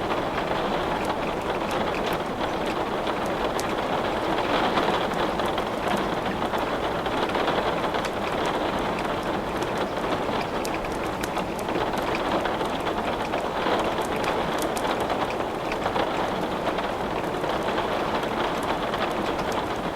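Steady rain pattering without a break, with many small sharp crackles scattered through it, the sound of wood burning in a fireplace.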